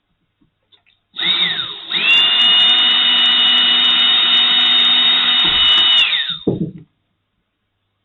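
Small power drill drilling a tiny hole into a plastic cap over a screw hole. A short burst about a second in, then a steady high whine for about four seconds that winds down near the end.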